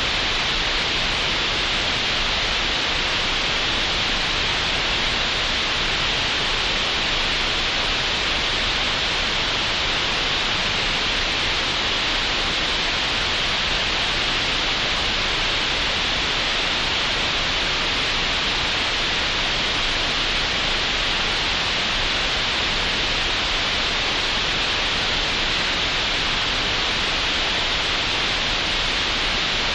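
Green noise generated in Audacity: a steady, even hiss with most of its energy in the upper middle of the range.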